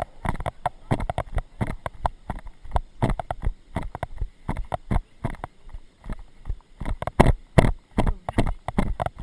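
A horse's hoofbeats and tack jostling, heard as a quick run of thuds right at a camera carried on the horse or rider, with the heaviest thuds near the end.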